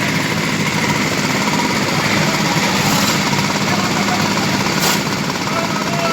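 Engine-driven construction machinery running steadily with a fast, even rattle during a concrete roof slab pour.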